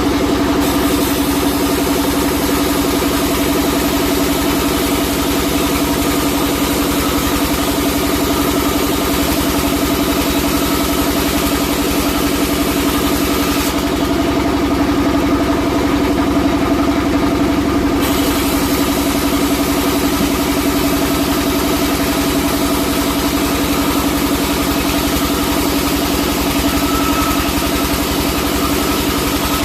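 Sawmill machinery running with a steady, unchanging motor hum and hiss. The higher hiss thins for a few seconds around the middle.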